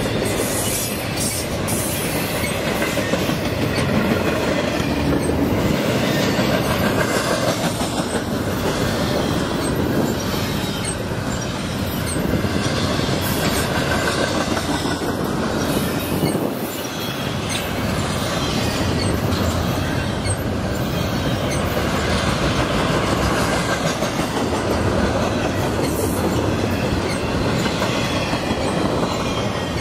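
Intermodal freight train's stack cars and trailer flatcars rolling past: a steady rumble and rattle of steel wheels on rail, with clickety-clack over the rail joints.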